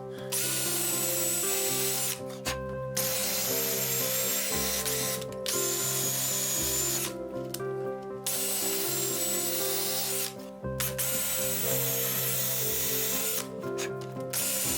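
Power drill boring mortise holes in cedar, running in spells of two to three seconds with short stops between them. Background music plays under it.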